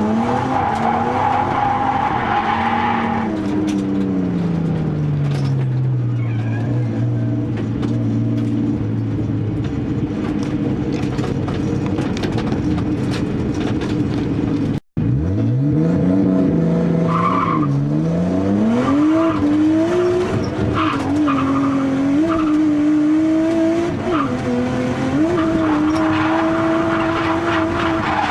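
Nissan Skyline R32's RB20DET turbocharged straight-six, boosted on the stock turbo and low on compression, driven hard while drifting, with some tyre squeal. The revs fall away steadily over the first few seconds; after a split-second break about halfway, the engine climbs and swings up and down with the throttle.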